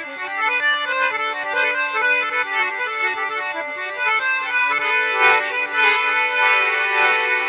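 Instrumental folk music: a free-reed instrument of the harmonium or accordion kind plays a stepping melody over a steady held drone note.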